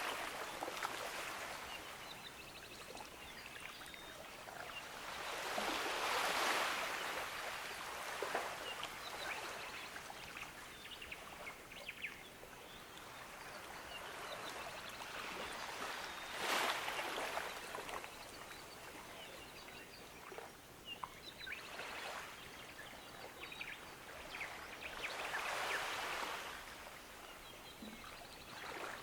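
Gentle ocean waves washing onto a beach, swelling and falling back about every ten seconds, three times; the middle wave breaks with the sharpest splash.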